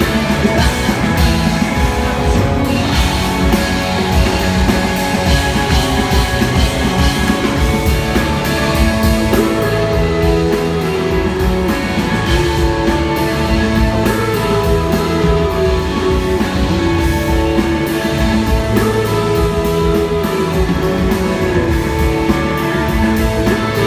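Live rock band playing, with electric guitars and drum kit, and a gliding melody line through the second half.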